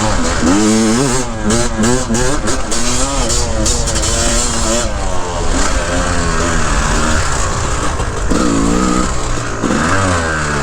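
Dirt bike engine revving up and falling back again and again as the bike is ridden.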